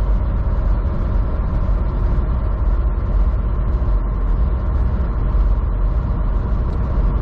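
Semi truck's engine running steadily, a low, even rumble heard from inside the cab.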